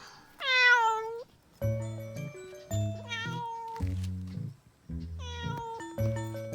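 A cat meowing: one loud drawn-out meow falling in pitch about half a second in, then two shorter, quieter meows later, over light background music.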